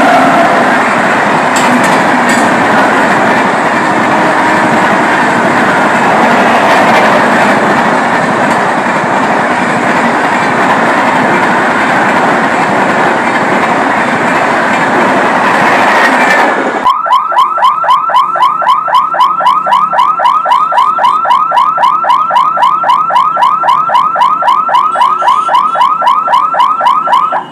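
A train running past a level crossing, its wheels and coaches making a dense, steady rush for about seventeen seconds. It then gives way abruptly to a rapid electronic ringing, about five pulses a second, typical of a level-crossing warning bell.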